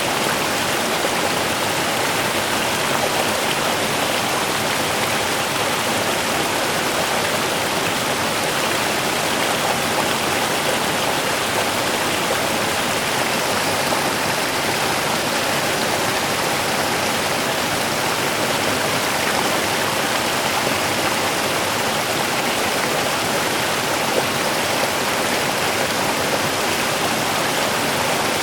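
A small river running steadily over stones, a continuous rushing and babbling with no breaks.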